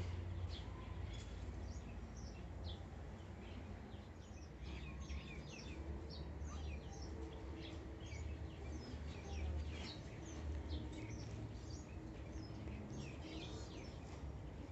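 Many short, quick bird chirps scattered throughout, over a low steady rumble.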